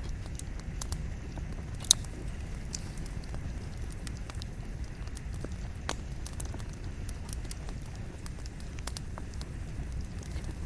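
Wood campfire burning, with scattered crackles and pops of the firewood over a low steady rumble; one sharp, louder pop about two seconds in.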